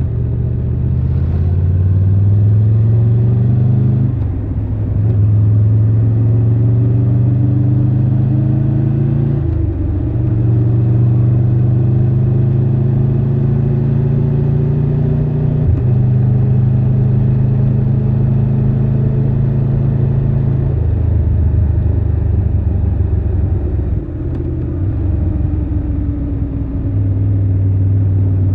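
Triumph Tiger 1200 Rally Pro's inline three-cylinder engine under way, its pitch climbing steadily and dropping sharply at three gear changes as it pulls up through the gears. In the last third the note falls and runs lower and steadier, with a few more breaks.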